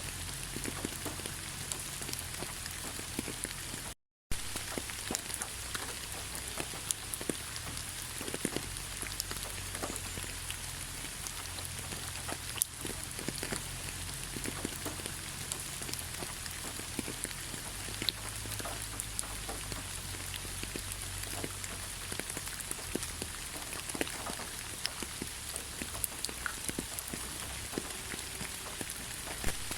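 Steady rain falling in a pine forest, with many sharp individual drips among the even hiss. The sound cuts out completely for a moment about four seconds in.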